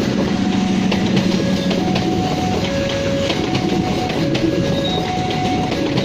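Passenger coaches of a locomotive-hauled train rolling past close by: a steady rumble with the wheels clicking over the rail joints.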